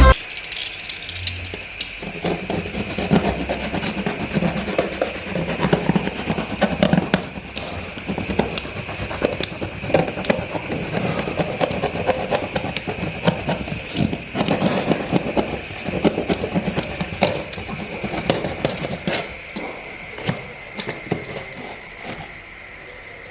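Work sounds from a building job: scattered knocks, taps and scraping at an irregular pace, over a faint steady high-pitched hum.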